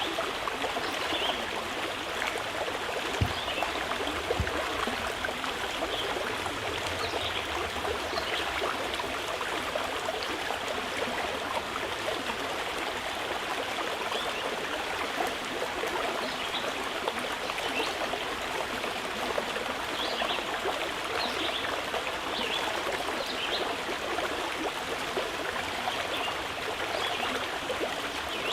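Mountain river flowing steadily with an even rushing sound, and scattered faint bird chirps high above it. There is a brief low knock about three seconds in.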